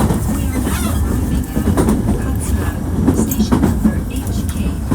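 Hankyu 1300 series electric train running, heard from inside the car: a steady low rumble of wheels on the track, with scattered clicks from the rail joints.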